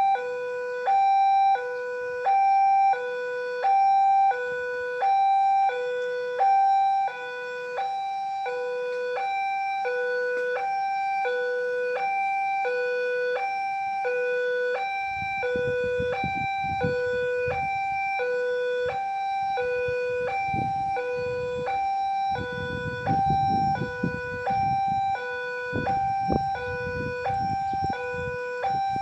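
Railway level-crossing warning alarm sounding steadily, an electronic two-note signal switching back and forth between a lower and a higher tone a little more than once a second, warning that a train is coming. About halfway in, a low rumble with irregular knocks joins it, typical of a train running over the crossing.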